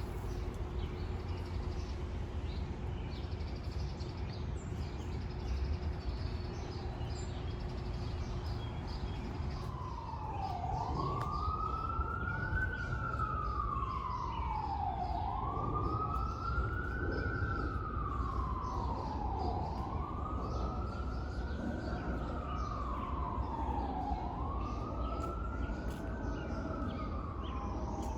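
Emergency-vehicle siren in a slow wail, starting about a third of the way in and rising and falling about every four and a half seconds, over a steady low city rumble.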